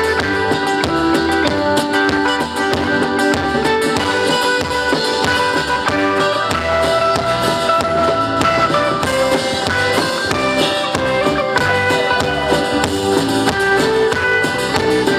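Live band playing an instrumental intro led by guitar, with drums keeping a steady beat.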